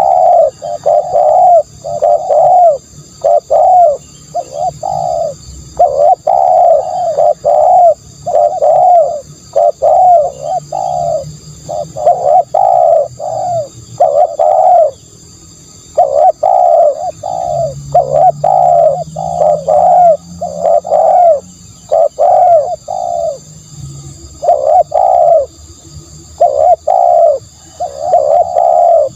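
Spotted dove cooing over and over, its low coo notes following one another with only short gaps and an occasional pause of a second or so.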